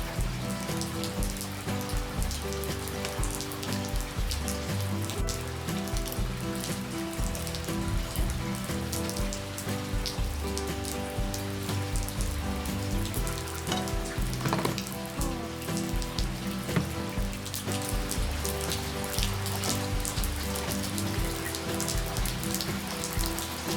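Steady rain falling and pattering on surfaces, with soft background music playing underneath.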